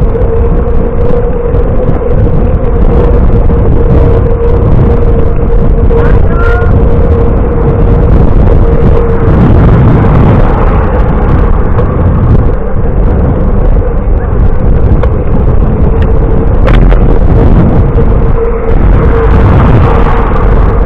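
Riding noise during a bicycle ride: wind rumbling on the microphone and road noise, with a steady hum and a couple of brief clicks.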